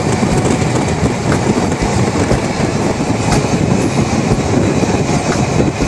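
Indian Railways passenger coach running at speed, heard at an open barred window: a loud, steady rumble and rattle of the coach with wind, and a few sharp clicks of the wheels over rail joints.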